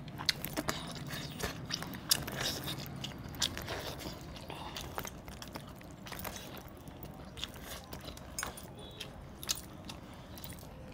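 A man chewing and biting tough desi chicken leg meat, with irregular small clicks and mouth smacks, the sharpest about two seconds in. The meat is tough free-range chicken that takes a lot of chewing.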